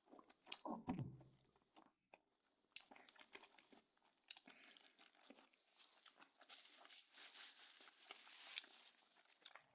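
Faint, close-miked chewing and biting of a person eating stew-soaked bread and tender beef, with many small wet mouth clicks and smacks.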